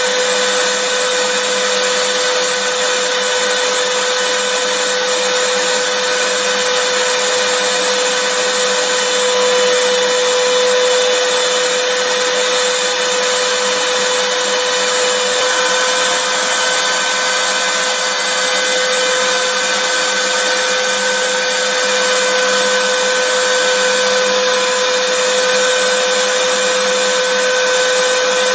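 Vacuum cleaner running steadily: an even, unbroken motor whine and airflow hiss with a steady hum.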